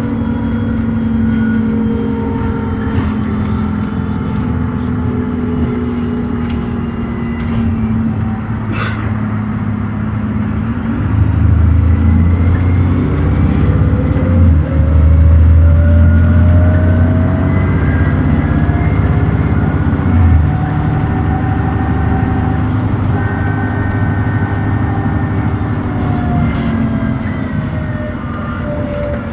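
Dennis Trident ALX400 double-decker bus engine and automatic gearbox heard from on board: a kickdown downshift about ten seconds in puts the engine under full power, revs climbing, a brief dip at a gear change around twenty seconds, revs climbing again, then revs falling near the end as the bus eases off and slows.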